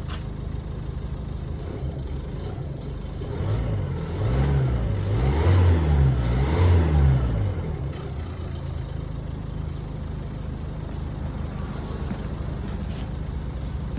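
A car engine idling shortly after a cold start, revved up in several quick blips about a third of the way in, each rising and falling in pitch, then settling back to a steady idle.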